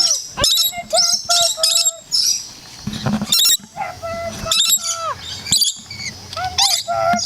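A flock of lorikeets calling: many short, shrill, screechy chirps and squawks that bend in pitch, overlapping one another with barely a pause.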